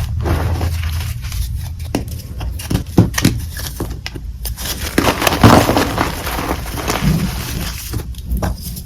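Dyed chalk crushed by hand, giving irregular crunching and crackling with sharp snaps, the loudest about three seconds in and again past the middle.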